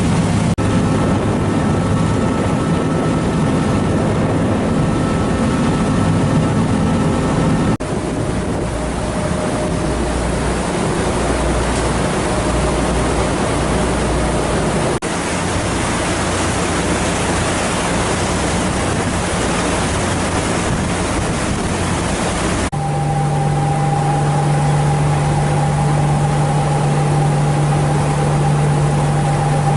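Steady hum of ferry engines under loud wind on the microphone and rushing water. The engine's pitch and the overall sound change abruptly three times, about a quarter, half and three-quarters of the way through.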